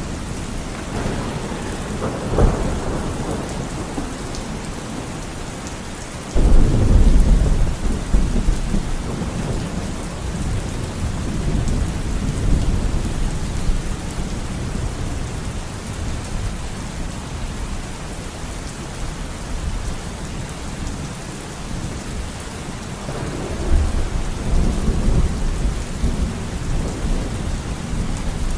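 Steady heavy rain with thunder: a sharp crack about two seconds in, a sudden loud low rumble starting about six seconds in that dies away over several seconds, and another rumble near the end.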